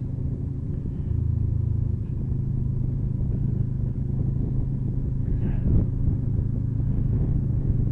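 Motorcycle engine running steadily at an even low pitch while riding.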